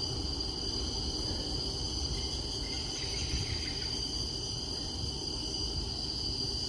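Chorus of insects in the wetland forest: a steady, shrill, high-pitched buzzing with several pitches held at once, over a low rumble.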